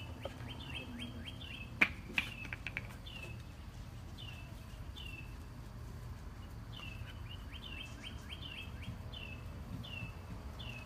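Songbird chirping over and over in short, quick downward-sliding notes, with a low, steady background rumble. A sharp click sounds about two seconds in, followed by a few quieter clicks.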